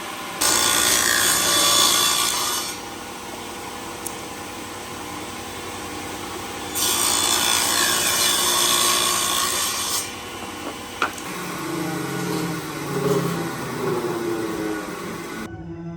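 A tool working wood in two long loud passes, each two to three seconds, over a steady machine hum.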